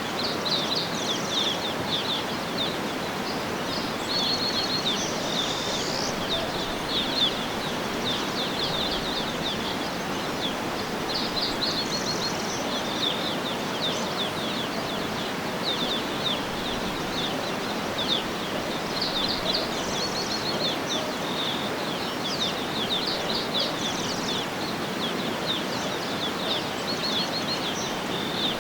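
Small songbirds chirping and twittering in quick runs throughout, over a steady rushing background noise.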